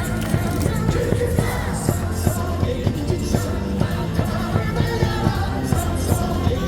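Baseball cheer song with a steady beat, the crowd in the stands singing along.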